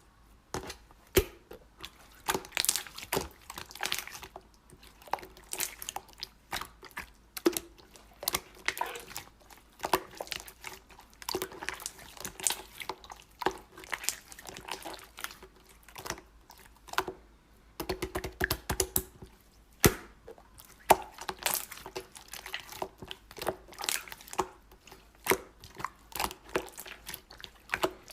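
Hands kneading and squeezing slime, making a steady run of irregular sticky clicks, crackles and small pops.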